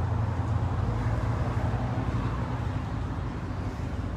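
A car engine idling steadily, a low, even hum.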